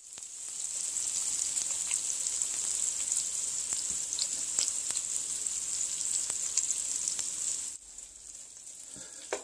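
Flour-dredged slices of deer heart and onion rings frying in oil and butter in a pan: a steady sizzling hiss with scattered small pops. It swells over the first second and turns quieter near the end.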